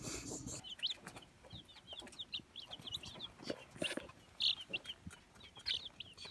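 Baby chicks peeping: many short, high chirps, several a second, some overlapping.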